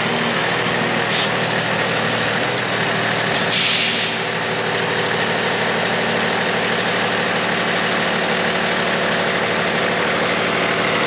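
2016 Freightliner M2-106 box truck's Cummins diesel engine idling steadily. About three and a half seconds in, a short, sharp burst of compressed-air hiss, with a fainter hiss about a second in.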